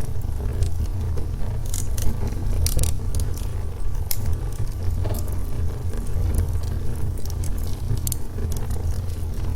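Wood fire burning in a fireplace: a steady low rumble of flames with irregular sharp pops and crackles from the burning logs.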